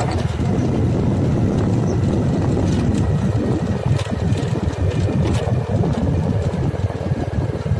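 Heavy roadwork machine's engine running steadily, a dense low rumble, with a few short clicks or knocks in the middle.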